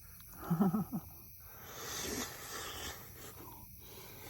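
A man's short voiced sound, then a long breathy exhale through the mouth, the sound of someone huffing air over a mouthful of food that is too hot.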